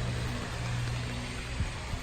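Steady rain hiss with a low engine hum running under it, and a single light knock near the end.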